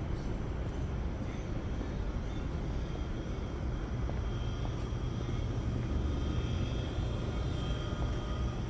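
Steady low rumble of city street traffic, with a faint thin whine in the middle of the stretch.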